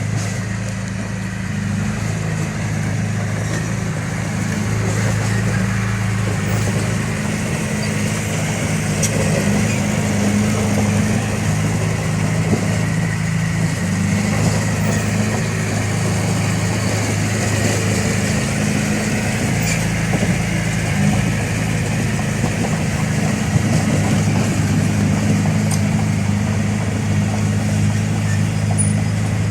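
Heavy-machine diesel engine running steadily and loudly, its pitch holding with no clear revving.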